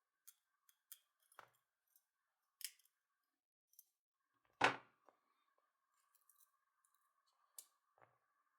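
Sharp snips and clicks at irregular intervals, the loudest in the middle, as old copper winding wire is cut and pulled from a hammer drill's motor armature.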